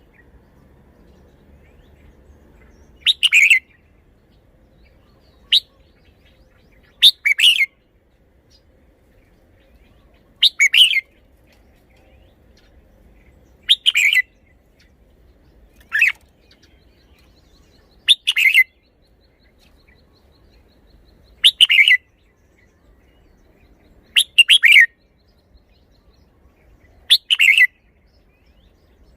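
Red-whiskered bulbul singing short, loud, warbling song phrases, one about every three seconds, about ten in all, a couple of them shorter than the rest.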